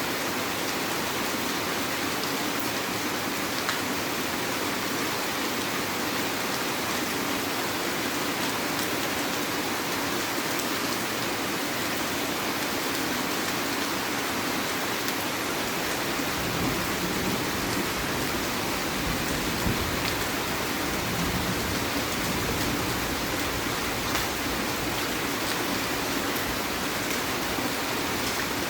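Heavy rain falling steadily. From a little over halfway through, a low rumble sits under it.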